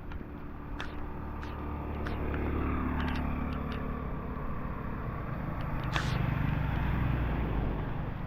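Motor vehicles passing on a street: a low engine hum whose pitch falls about two and a half seconds in, then a louder low rumble from a second vehicle for the last few seconds. Scattered sharp ticks sound throughout.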